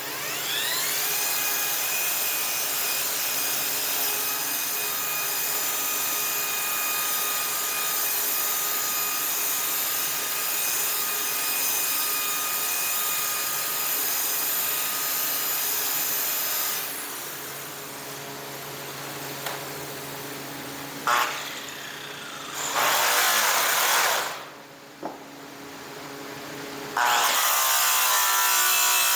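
Electric power tool spinning up and running with a steady whine, then winding down after about seventeen seconds. A few short bursts of running follow, and near the end it starts up again.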